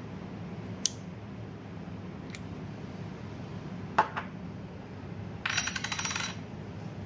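Small metal parts of a handheld laser welding head being handled while its protective lens is changed: a few sharp clicks, the loudest a double click about four seconds in, then a short jingling metallic rattle about a second later, over a steady low hum.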